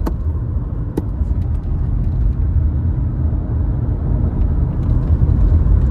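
Steady low rumble of a car on the move, with two faint clicks in the first second.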